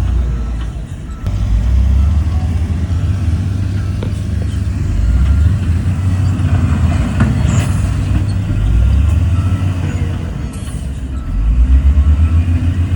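Heavy diesel engine of earthmoving machinery running with a deep rumble that swells and eases every few seconds as it works under load, with a few short clanks.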